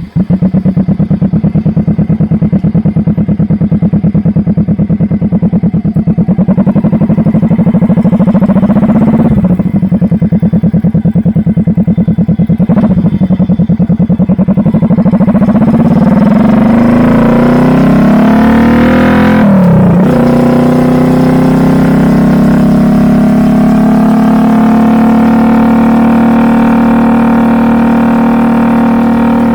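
Kawasaki Vulcan S 650 parallel-twin engine through a Truedual Valero dual twin-pipe exhaust: it idles with a pulsing beat, then accelerates. The pitch climbs and drops sharply three times, about 9, 13 and 20 seconds in, as it shifts up through the gears. It then holds a steady higher drone at cruising speed.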